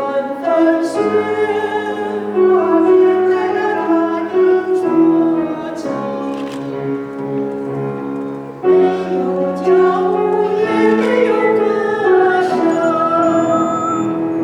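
Small vocal group singing a slow song in sustained, held notes, with piano accompaniment.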